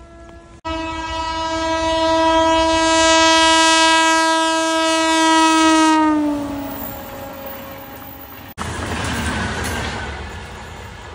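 Locomotive horn sounding one long, steady note that drops in pitch as the engine passes. After a sudden cut, the rumble and clatter of train wheels running past on the rails.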